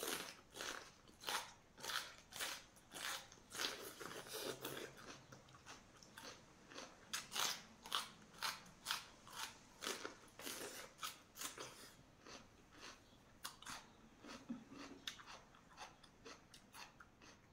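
Close-up crunching and chewing of a crisp fried green chili pepper: a run of short crisp crunches, about one or two a second, growing sparser and fainter in the last few seconds.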